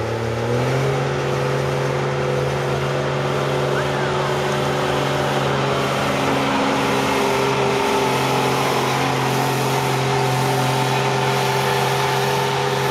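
1990 Dodge pickup's Cummins diesel engine under full load pulling a weight-transfer sled. Its note steps up about half a second in, then holds at a steady high speed.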